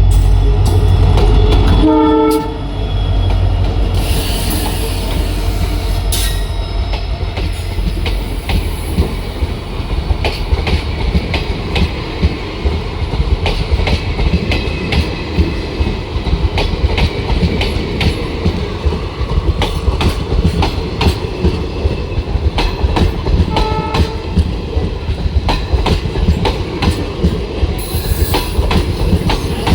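A WDP4 diesel-electric locomotive's 16-cylinder two-stroke EMD engine rumbling loudly as it passes, with a short blast of its horn about two seconds in. Then its passenger coaches roll by, wheels clicking rhythmically over the rail joints for the rest of the time, with a second, fainter horn note near the end.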